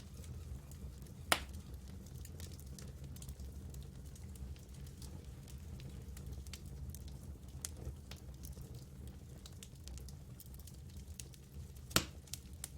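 Campfire burning with a low steady rumble of flame and scattered light crackles, and two sharp pops from the wood, one about a second in and a louder one near the end.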